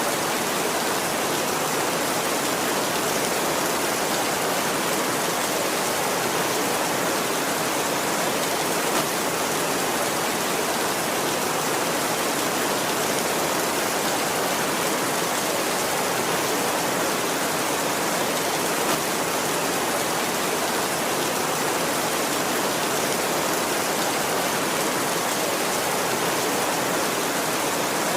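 Heavy rain falling steadily on a tin roof, an even unbroken hiss with no thunder.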